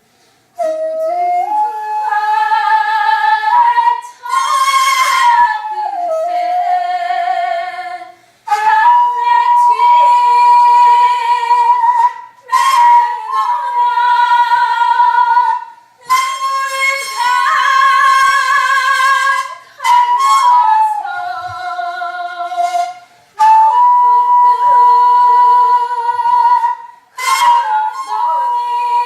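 Daegeum, the Korean large bamboo transverse flute, playing a slow solo melody. It holds long notes with vibrato and slides between pitches, in phrases broken by short breath pauses every few seconds.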